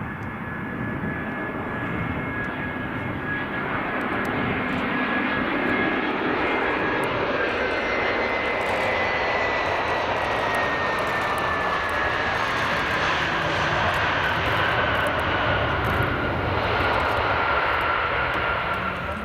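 Jet airliner passing close: a steady engine roar that builds over the first few seconds and drops away near the end, with a high whine that slowly falls in pitch as it goes by.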